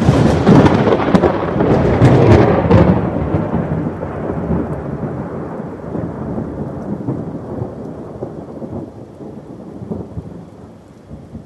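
A thunderclap over rain: it breaks suddenly and is loudest for the first three seconds, with a few sharp cracks, then rumbles on and slowly fades.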